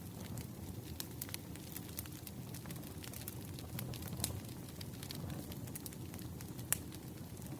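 Firewood crackling in a fire: irregular small pops and snaps over a low steady rumble, with one sharper pop near the end.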